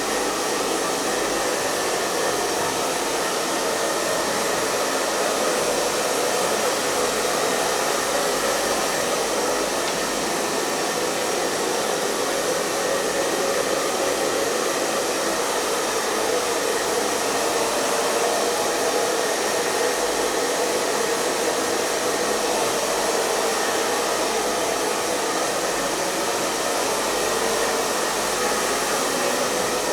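Hair dryer running steadily, an even rushing blow of air with a faint hum from its motor.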